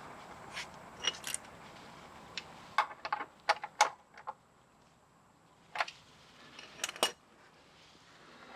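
Metallic clicks and clinks of a wrench worked against the oil drain plug while it is tightened snug. The clicks are scattered, with a quicker run of them about three to four seconds in and another pair near the end.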